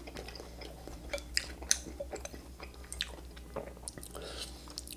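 Close-miked chewing of a mouthful of soft, saucy canned pasta with melted cheese: irregular wet mouth clicks and smacks.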